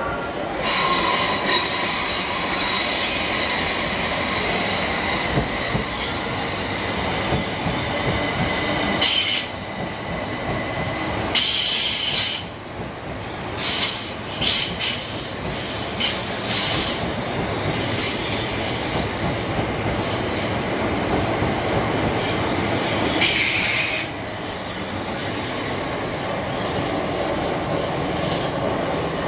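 Electric multiple-unit train running slowly along a station platform, with its wheels squealing in high steady tones for the first several seconds. Then come a series of short, loud, hissing screeches between about 9 and 24 seconds in, over a continuous running rumble.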